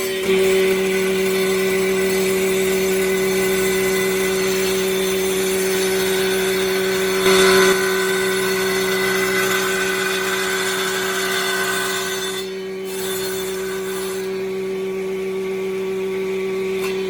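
Combined planer running steadily with a carbide-toothed circular saw blade, cutting a bevel into wood. The cutting gets briefly louder just after the start and again about halfway, and eases for a moment about three-quarters of the way through.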